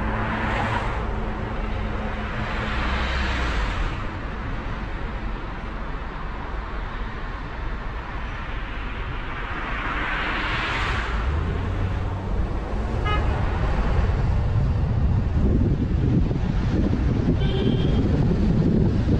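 Road and traffic noise from a car drive: a steady low rumble of engine and tyres, with other vehicles passing as swelling and fading whooshes a few times. The rumble grows louder about two-thirds of the way through.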